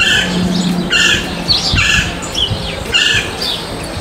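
Birds squawking: short, harsh calls repeated every half second or so.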